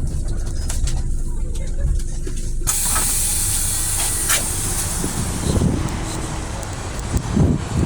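Scania bus engine running low and steady. About three seconds in, a loud hiss of compressed air from the bus's air system starts suddenly and dies away about three seconds later. A brief louder sound comes near the end.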